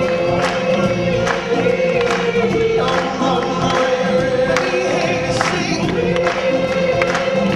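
A choir singing with band music and a steady drum beat. The voices hold long notes, with a short break near the end before the note is taken up again.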